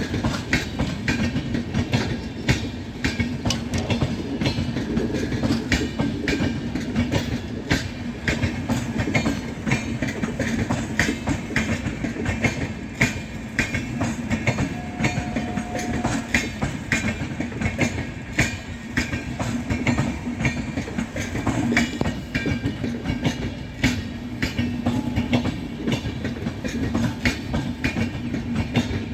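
Rajdhani Express passenger train running through at speed, its wheels clattering steadily and continuously over the rail joints above a constant rumble.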